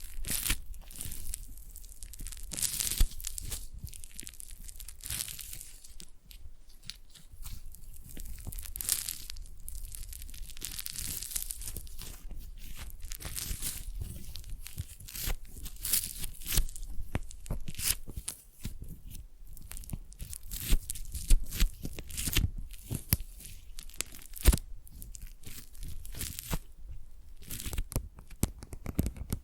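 Foam clay being squeezed, kneaded and pulled apart by fingers close to the microphone, giving a dense, irregular crackling and tearing with sharp snaps now and then. Near the end it gives way to a faster run of fine clicks and scratches.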